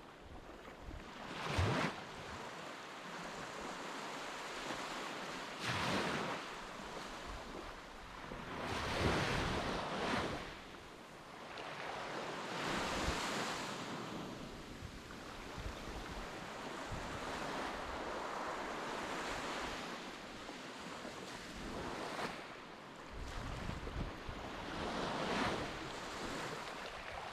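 Sea water washing in surges every few seconds, with wind buffeting the microphone.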